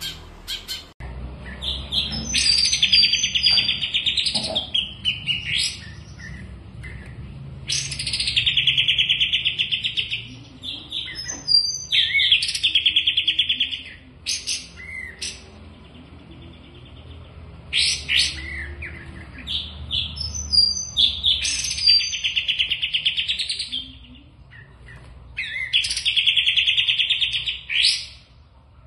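A songbird singing about six loud phrases of rapid, trilling notes, each lasting one to four seconds and coming a few seconds apart.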